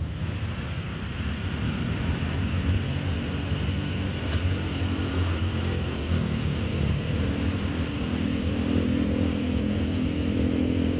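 A motor vehicle's engine running steadily, with a single faint click about four seconds in.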